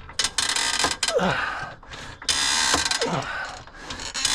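Hydraulic trolley jack being pumped in a few long, ratcheting strokes, with short falling-pitch creaks as it takes the car's weight at a jack point that keeps slipping.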